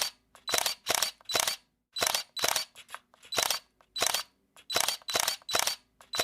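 Camera shutter clicking over and over, about two to three sharp clicks a second, in quick runs with short pauses, a few of them fainter.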